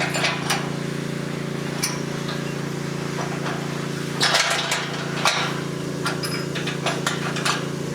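Metal round pen panels clinking and clattering as they are handled and set, in scattered knocks with a longer clatter about four seconds in and a run of light clinks near the end. A steady engine hum runs underneath.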